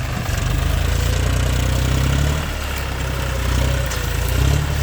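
John Deere 5105 tractor's three-cylinder diesel engine running with a low, pulsing note; it eases off about halfway through and picks up again near the end.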